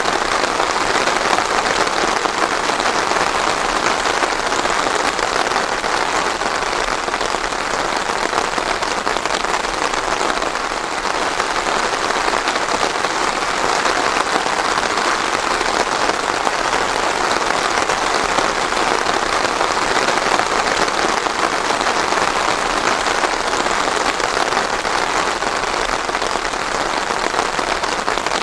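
Steady rain falling on a surface, a dense even patter with no thunder.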